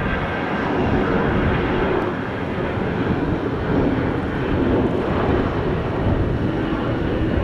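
Jet airliner engines running, a loud, steady rumble of engine noise that does not rise or fall much.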